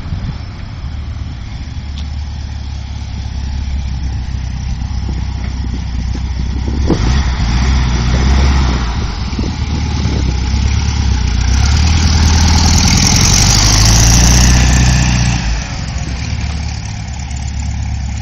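1955 oval-window VW Beetle's Judson-supercharged air-cooled flat-four engine under way. It pulls harder and grows louder from about seven seconds in, then eases off sharply near the end.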